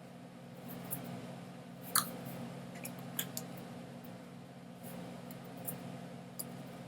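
Scattered small clicks and ticks, a few seconds apart, over a steady low hum in a small room.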